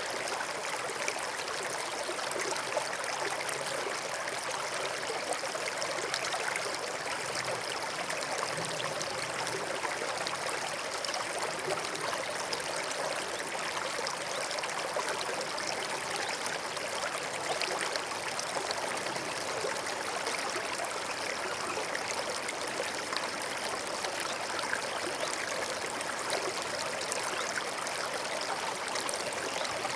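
A forest stream flowing steadily, water trickling and splashing over stones.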